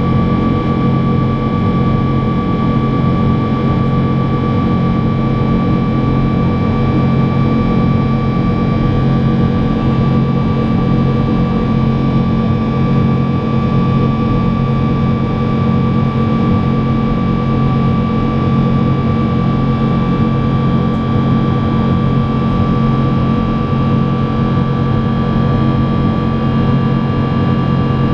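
Boeing 777-200's engines heard from inside the cabin in flight: a loud, steady drone with a constant whine above it.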